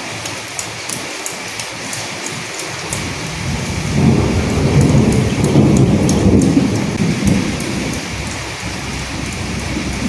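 Steady rain with individual drops ticking, and a low rumble of distant thunder that swells about three seconds in, is loudest in the middle and fades away near the end.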